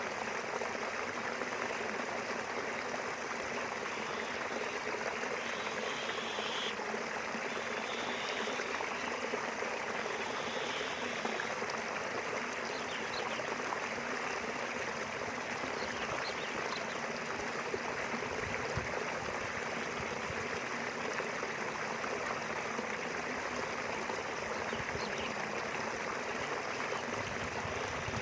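A small river flowing steadily, its water running in an even, continuous rush.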